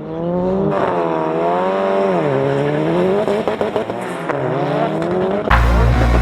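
A car engine revving hard, its pitch climbing and falling several times as it is pushed through the revs. About five and a half seconds in, heavy bass music cuts in over it.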